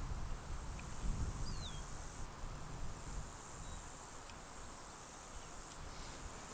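Insects, likely crickets, chirping in a steady high-pitched outdoor chorus that swells and drops in level a couple of times, with a low rumble underneath and one short falling whistle about a second and a half in.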